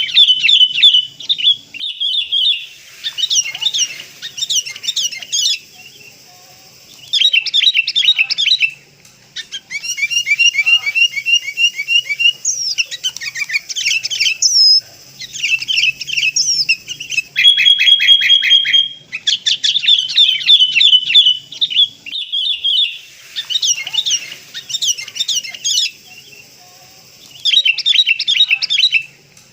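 Sooty-headed bulbuls chattering: bursts of rapid, repeated chirping notes, each a second or two long, broken by short pauses.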